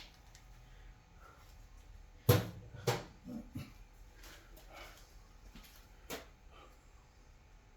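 A few sharp knocks and clatters of small objects being handled and set down, the loudest about two seconds in, a second just after, and another about six seconds in.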